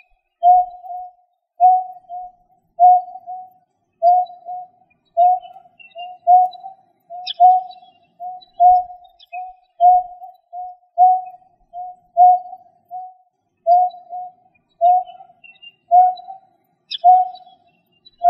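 A bird's low call repeated steadily, a strong note followed by a softer one about once a second, with faint high chirps from other birds in the background.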